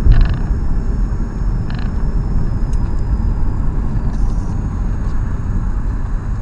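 Steady low rumble of a car on the move, engine and road noise as a dashcam picks it up, with a couple of faint clicks in the first two seconds.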